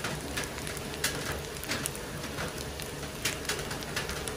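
Nasi goreng with cabbage sizzling in a metal pan: a steady crackling hiss with frequent sharp pops.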